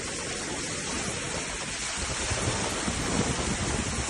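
Steady rushing noise of heavy rain and wind.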